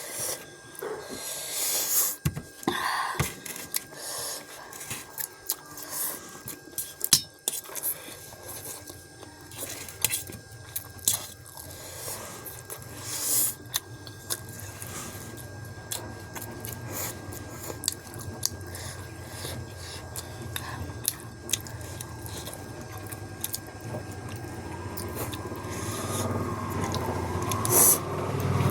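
Close-up chewing and biting of spicy instant noodles, with scattered wet mouth clicks. Over the last few seconds a low road-traffic rumble builds up.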